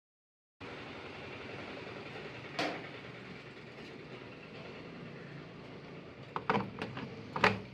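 Steady background noise with a sharp click about two and a half seconds in and a quick run of clicks and knocks near the end.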